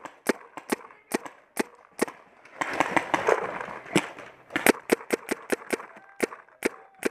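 Paintball markers firing a string of sharp pops, irregularly spaced, with a quick run of about four or five shots a second about two thirds of the way in.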